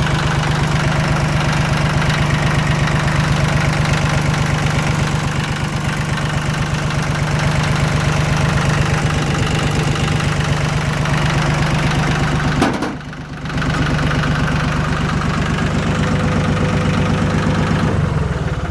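Yanmar F16D compact tractor's three-cylinder diesel engine idling steadily, with an even, rapid pulse of firing strokes. About 13 seconds in there is a click and the level drops briefly before the engine sound comes back.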